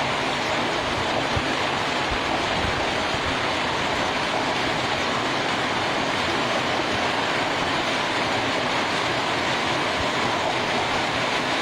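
Heavy hail falling: a dense, steady clatter of hailstones striking, with many small sharp knocks in the noise.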